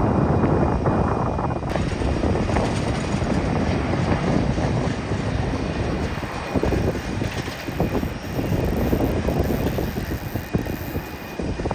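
Jet airliner's engines on landing approach to the runway, a loud steady rush of engine noise with a thin high whine mixed in.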